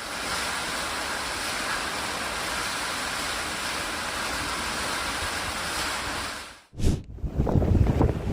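Steady rush of running water, even and unbroken, cutting off abruptly about six and a half seconds in; then a click and a lower, rumbling noise near the end.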